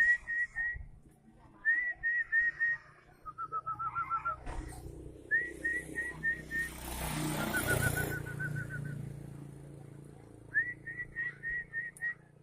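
White-rumped shama singing quick runs of four to seven short, identical whistled notes, the runs at two pitches, one higher and one lower. A rushing noise swells and fades midway and drowns the bird for a few seconds.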